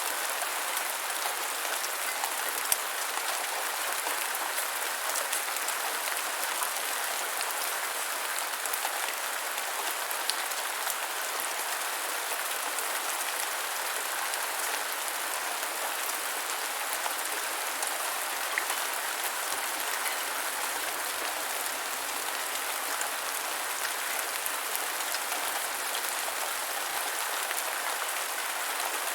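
Steady gentle rain, an even hiss with scattered faint drop ticks.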